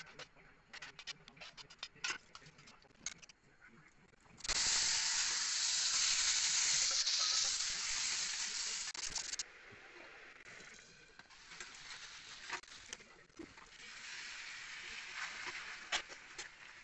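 Small clinks and clicks of mixing in a steel bowl, then, about four seconds in, a sudden loud sizzle as the marinated chicken liver and onions hit hot oil in a steel kadai. After about five seconds it falls to a quieter steady frying sizzle, with the spatula scraping and clinking against the pan.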